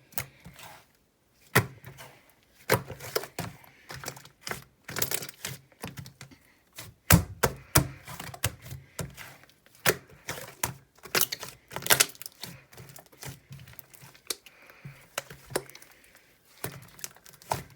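Fluffy slime being squeezed and poked by hand, giving an irregular run of crisp clicks and pops, several a second, with a few louder snaps.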